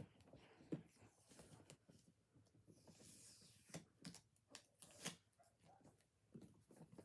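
A cardboard hair-dryer box being handled and pried open: a few sharp taps and knocks with soft scraping and rustling between.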